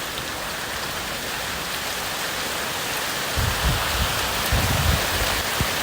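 Small hailstones, about the size of corn kernels, falling heavily together with rain in a dense, steady patter. A few low thumps come in the second half.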